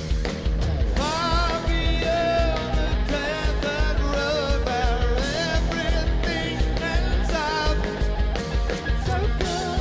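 Live rock band playing at full volume, with a heavy bass-and-drum pulse underneath and a lead vocal that comes in about a second in.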